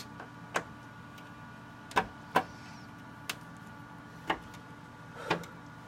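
Scattered sharp clicks and taps, roughly one a second, from hand tools and plastic parts being handled while an original Xbox One console is taken apart, over a steady faint hum.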